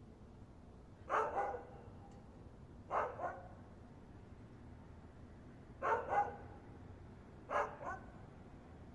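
A dog barking: four short bouts of two quick barks each, a couple of seconds apart.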